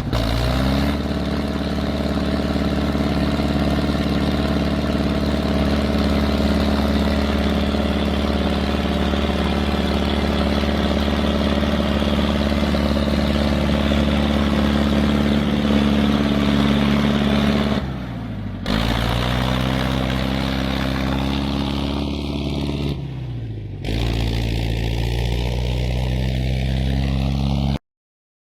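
Tractor engine running hard at steady revs. Twice its pitch drops as it bogs down, then climbs back. The sound cuts off abruptly near the end.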